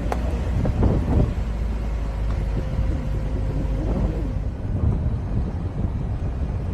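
Car on the move: a steady low rumble of engine and road, with some wind noise.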